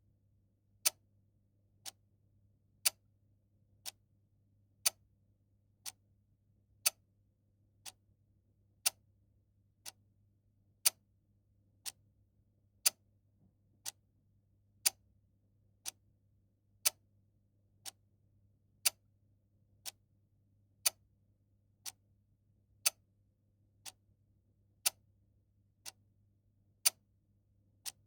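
Steady mechanical ticking, about one tick a second, the ticks alternating louder and softer in a clock-like tick-tock, over a faint steady low hum.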